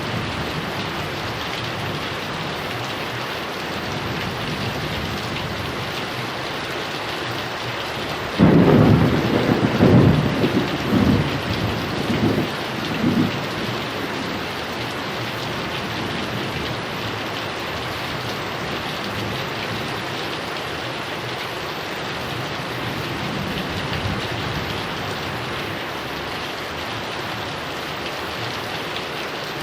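Heavy rain falling steadily, with a thunderclap about eight seconds in that breaks into several rolling rumbles over the next five seconds before the rain alone carries on.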